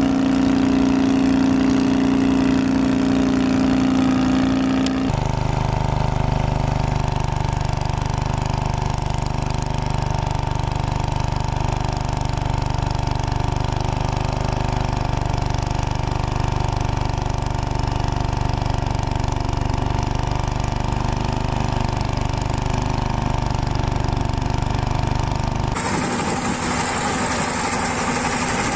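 Walk-behind tractor engines running steadily, heard in three separate clips with abrupt cuts about five seconds in and near the end.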